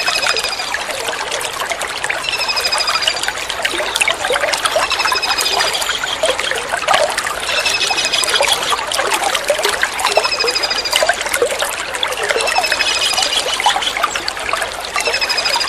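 Kingfisher (tengkek udang) calling over a steady trickle of running water. The call is a short, high, slightly falling trill, repeated about every two and a half seconds.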